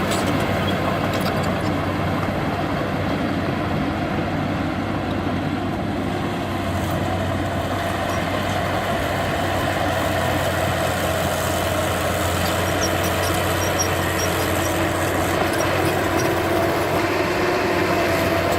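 Diesel engine of heavy earthmoving machinery running steadily, its pitch creeping up a little in the second half.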